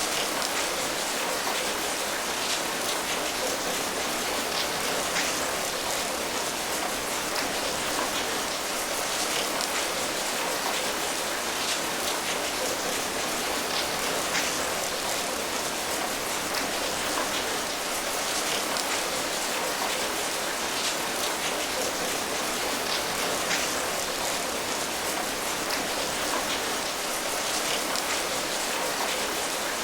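Steady rain falling, an even patter with many small separate drop impacts scattered throughout.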